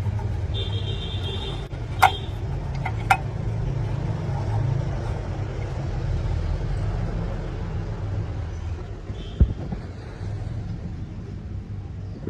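A heavy truck engine running with a steady low rumble, with two sharp clicks about two and three seconds in and a single knock later.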